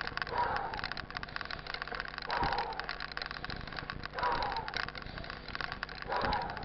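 Mountain bike ridden over a dirt trail: a steady rattle and clatter, with a short squeak that falls in pitch and comes back about every two seconds.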